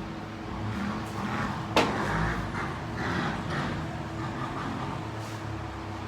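Steady low machine hum in a workshop, with one sharp knock about two seconds in.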